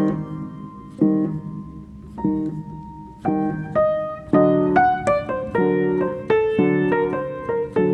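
Solo piano music: struck chords about once a second, with quicker single notes and chords joining from about four seconds in, each note ringing and fading.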